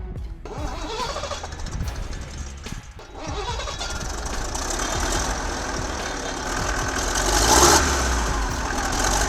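Old engine starting: uneven cranking and catching for the first few seconds, then running steadily, briefly louder about seven and a half seconds in.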